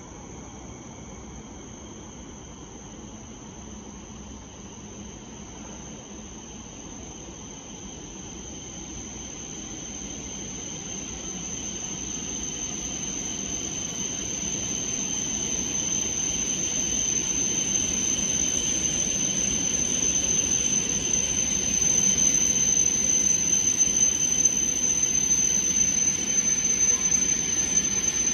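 E7 series Shinkansen train approaching and pulling in along the platform. A steady high whine, faint at first, and a running rumble grow steadily louder from about ten seconds in until the train is alongside.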